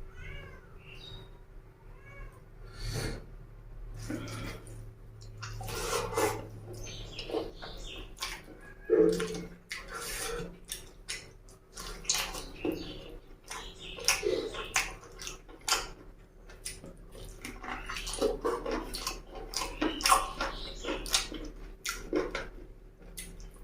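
A person eating fast, with wet chewing, smacking and slurping mouth sounds in quick irregular bursts.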